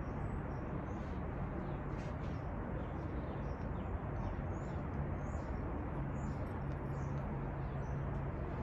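Outdoor ambience: a steady background hiss and low hum, with small birds chirping faintly and repeatedly.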